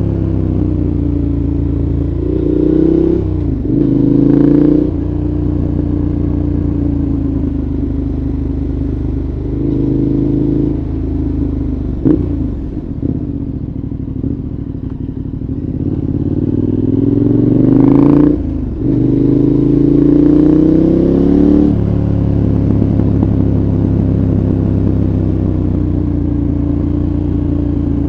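2014 KTM 1190 Adventure's V-twin engine through a Giannelli exhaust with the dB killer fitted, heard onboard while riding. The revs climb several times, with quick gear changes at about four and at about eighteen seconds, then fall back to a steadier cruise near the end.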